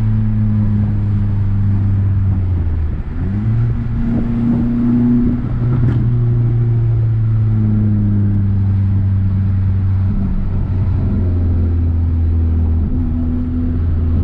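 Renault Sandero RS's naturally aspirated 2.0-litre four-cylinder engine pulling under acceleration, heard from inside the cabin. The note is mostly steady, breaks and climbs again about three seconds in, and dips briefly twice more near the end, like gear changes.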